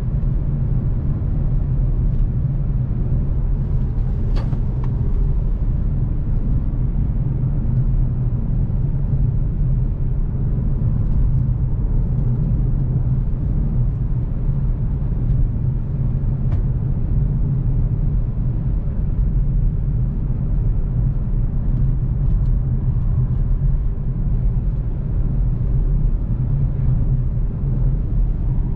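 Volkswagen CC 3.6 VR6 driving at a steady pace: an even low rumble of engine and road noise with no revving, and a couple of faint clicks.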